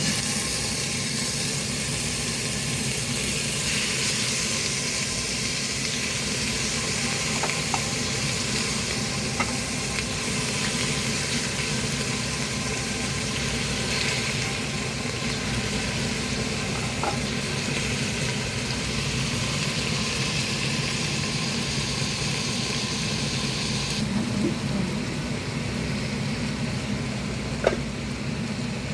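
Food sizzling steadily in a cooking pot over a low steady hum, with a few light clicks of a utensil, the sharpest one near the end. The sizzle thins out a few seconds before the end.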